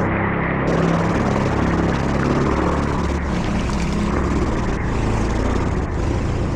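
A motor vehicle's engine running steadily, with a continuous rushing noise over it.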